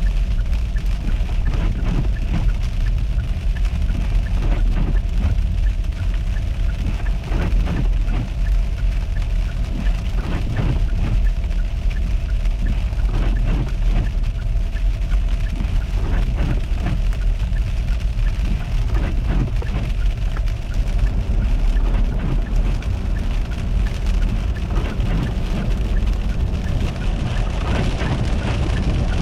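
A car driving on winter roads, heard as a steady low rumble of road and engine noise with many small ticks scattered through it.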